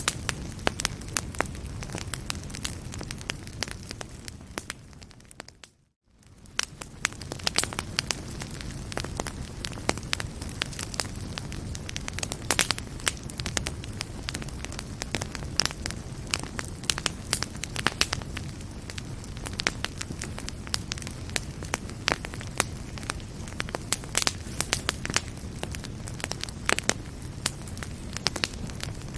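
Wood fire in a fireplace crackling and popping steadily over a low rumble. About five seconds in, the sound fades out briefly to near silence and then fades back in.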